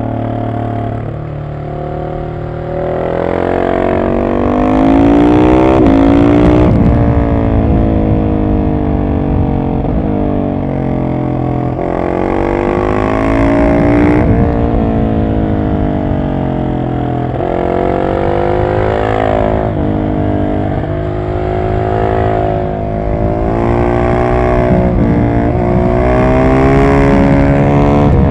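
Husqvarna 701 SM's single-cylinder engine through an aftermarket Arrow exhaust with the catalytic converter removed, running at speed. The revs climb and drop back again and again as the rider opens and closes the throttle, loudest about four to six seconds in and near the end.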